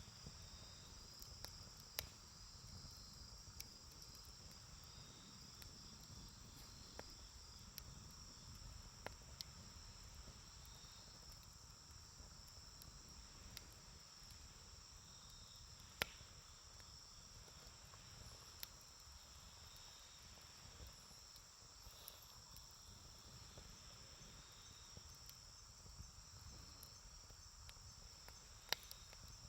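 Wood campfire burning faintly, with a few sharp pops from the burning wood, the loudest about two seconds in, around the middle and near the end. Insects chirr steadily at a high pitch behind it.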